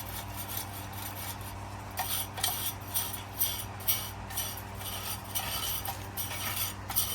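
A brush scraping caked dirt off the metal blades of a furnace blower wheel, in repeated short strokes about two to three a second, with light metallic clinks. A low steady hum runs underneath.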